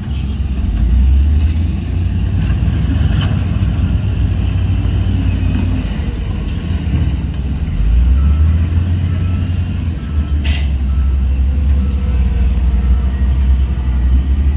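Heavy diesel earthmoving machinery, bulldozer and dump trucks, running with a steady deep engine rumble that swells briefly about eight seconds in. A short hiss cuts through about ten and a half seconds in.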